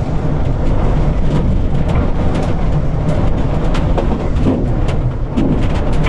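Strong gusting wind buffeting an electric tricycle camper, heard from inside as a heavy, continuous low rumble. Many sharp rattles and knocks come through it as the vehicle body shakes in the gusts.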